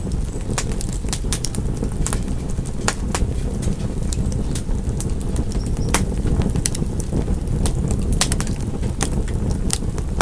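Wood fire in a fireplace crackling: irregular sharp pops and snaps, some in quick clusters, over a steady low rumble of the burning.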